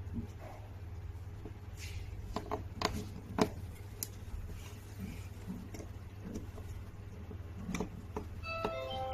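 Scattered sharp clicks and knocks of tools and parts being handled, over a steady low hum, with a short run of stepped electronic beeps near the end.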